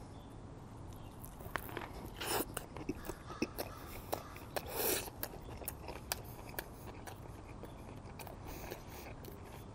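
A bite into a Whopper burger, then close-miked chewing, with scattered crunches and wet mouth clicks.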